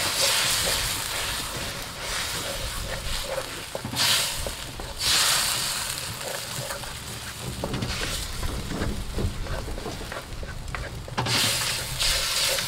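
Curry sauce sizzling in a wok over a charcoal fire while it is stirred with a wooden spoon, just after curry base sauce has been added to the fried spice paste. The hiss rises in louder surges about four and five seconds in and again near the end, with light scrapes and taps of the spoon against the pan.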